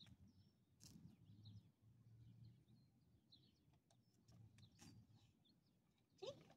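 Near silence: faint birds chirping in the background, with a few soft clicks.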